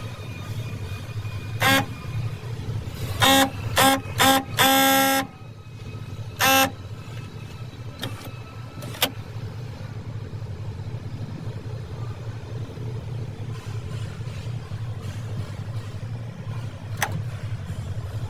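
Car horn honking: five short toots and one longer blast in the first seven seconds, over a steady low hum. A few sharp clicks follow later.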